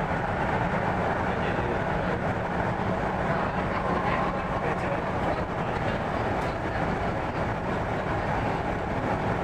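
Korean-built Hyundai Rotem electric train on the MTR East Rail Line running at speed, heard inside the carriage: a steady rumble of wheels and running gear with a low hum underneath.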